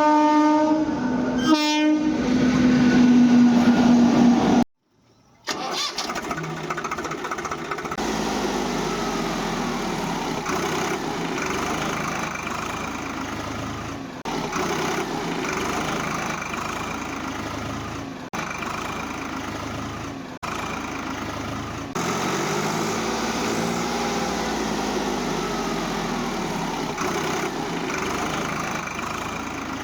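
A horn sounding for about two seconds, its pitch dropping. After a brief cut, a small motor runs steadily, its pitch rising and falling now and then.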